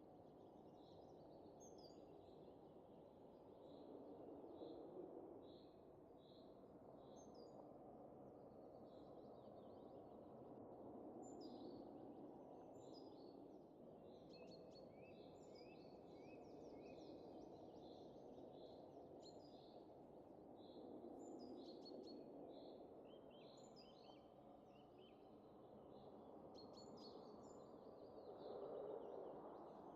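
Soft wind blowing steadily and swelling in gentle gusts every several seconds, with small birds chirping throughout: a run of evenly spaced high notes at first, then many overlapping chirps and calls.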